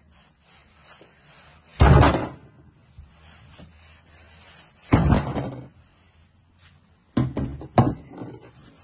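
Heavy knocks or thuds, four in all: one about two seconds in, another about three seconds later, then two in quick succession near the end.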